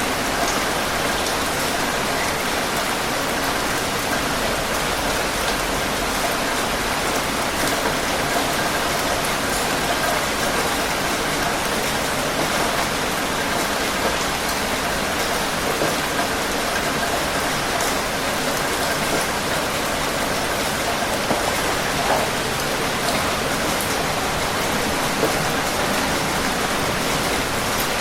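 Steady heavy rain falling on a surface, with a few individual drops ticking now and then.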